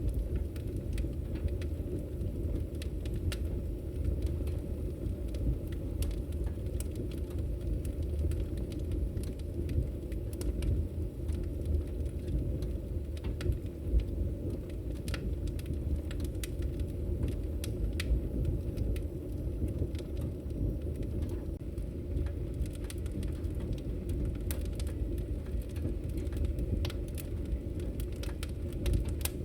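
Wood fire crackling in a fireplace: a steady low rumble of burning with frequent small, sharp crackles and pops scattered irregularly throughout.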